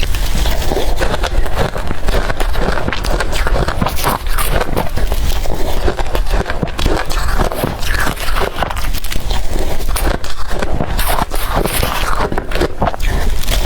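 Blender-crushed ice being bitten and chewed close up: continuous dense crunching and crackling.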